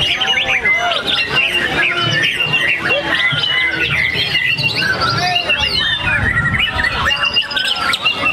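Several white-rumped shamas singing at once: a dense, steady stream of overlapping whistles, rising and falling glides and chirps.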